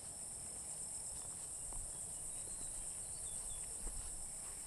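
A chorus of insects, crickets or cicadas, keeping up a steady high-pitched trill, with a low rumble and a few faint clicks underneath.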